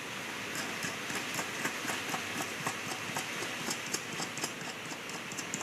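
Small metallic clicks and ticks, several a second, from about half a second in, as a nut is spun by hand onto a stainless steel eye bolt.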